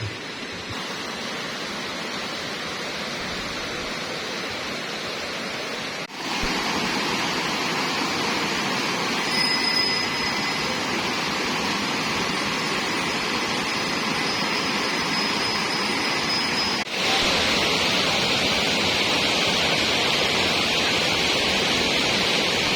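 Waterfall's steady rush of falling water. It breaks off briefly about six seconds in and again near seventeen seconds, and comes back louder each time.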